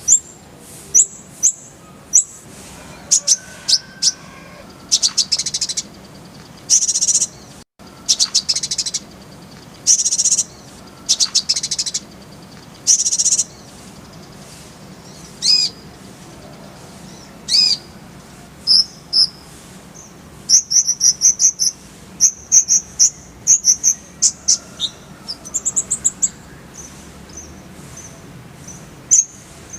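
Kolibri ninja (konin) sunbird singing: high, thin chirps and rapid buzzy trills in bursts, with fast runs of sharp chirps in the second half.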